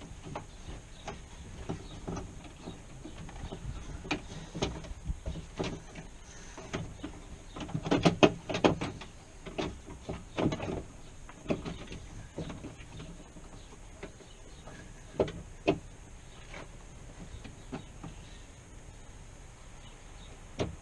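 Irregular clicks, knocks and rattles of hands and tools working inside a GMC Suburban's opened door, busiest about eight seconds in, with two sharp knocks about three quarters of the way through.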